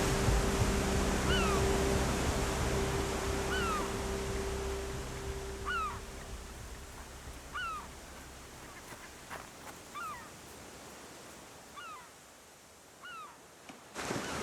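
A bird gives a short, downward-sliding call, repeated about every one to two seconds. Behind it, music fades out over the first half and a soft outdoor hiss remains.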